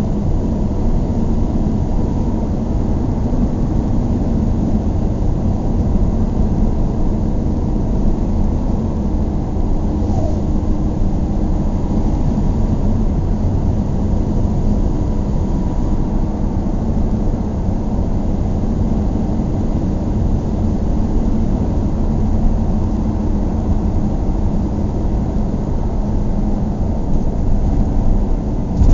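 Steady vehicle driving noise: a continuous low rumble of engine and tyres on the road with a faint even hum, unchanging for the whole stretch.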